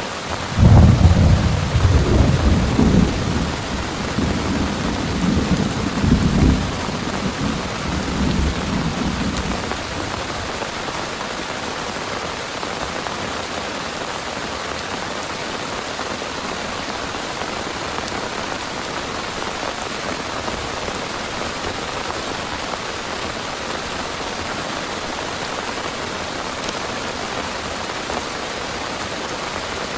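Heavy rain falling with a steady hiss, and a thunderclap that breaks in suddenly under a second in, rolls on in low rumbling waves for several seconds and dies away by about ten seconds in.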